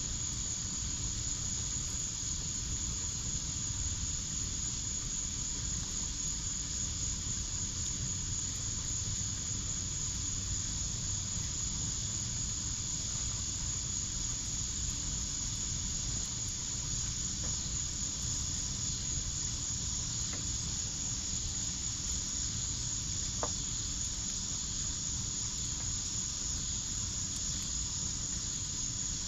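Crickets chirping in a steady, unbroken high trill, over a constant low rumble.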